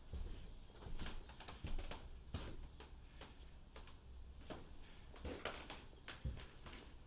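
Faint, irregular taps and clicks, a dozen or so spread unevenly, over a low background rumble.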